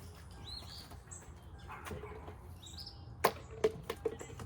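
Birds chirping in short, high calls, some falling in pitch, over faint steady low background noise; a few sharp knocks or clicks come near the end.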